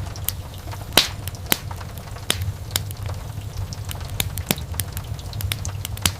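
Wood fire burning in a fireplace: irregular sharp crackles and pops, the loudest about a second in, over a steady low rumble.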